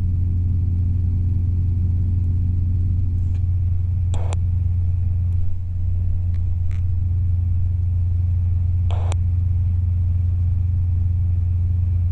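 Robinson R22 helicopter running on the ground: a steady, loud low drone from its piston engine and rotor. A few short clicks come about four and nine seconds in.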